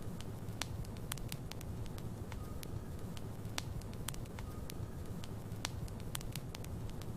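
Wood logs burning in a fireplace, crackling with frequent irregular sharp pops over a low rumble of flame, and a faint brief whistle now and then.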